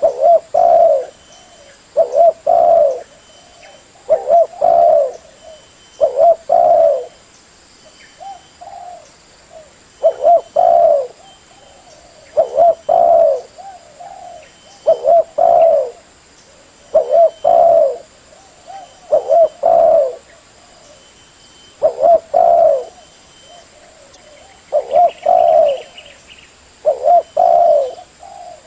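Spotted dove cooing over and over, a short phrase of a few notes about every two seconds, with softer coos in between. A lure call for the bird.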